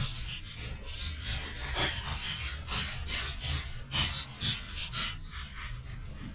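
Hot Wheels toy monster trucks clattering and scraping down the track: a run of short, irregular clicks and rasps over a low rumble, with the loudest clatters about two seconds in and again about four seconds in.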